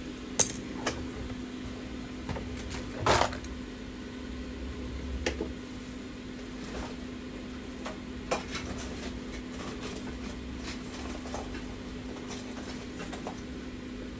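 A metal blade scraping and clicking against broken back glass of an iPhone 11, in scattered short strokes; the loudest scrape comes about three seconds in. Beneath it a steady hum from the hot-air heat gun used to soften the glass adhesive.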